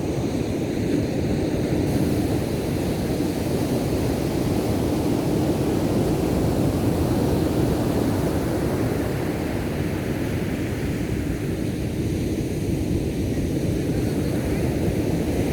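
Ocean surf breaking on a beach: a steady, low rush of waves.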